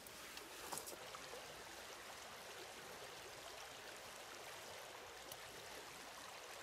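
River water flowing steadily over the stones of its bed, with a few faint clicks.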